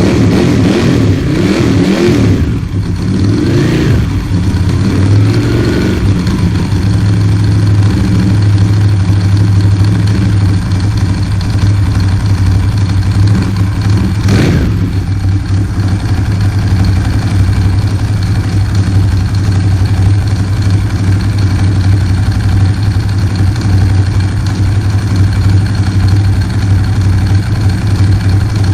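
Ducati 916's 90-degree V-twin running through Termignoni exhaust pipes, freshly restarted after a rebuild. It is revved a little in the first several seconds, gives one short sharp noise about halfway, then settles into a steady idle.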